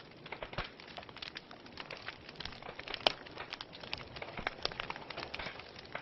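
Fireplace fire crackling: irregular snaps and pops over a soft hiss, with one louder pop about three seconds in.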